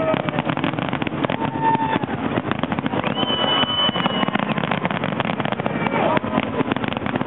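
Fireworks going off in a dense, continuous barrage of bangs and crackles, with a few brief whistling tones.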